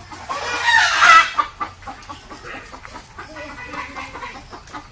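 Farm chickens clucking, with one loud drawn-out call about a second in, then softer scattered clucks.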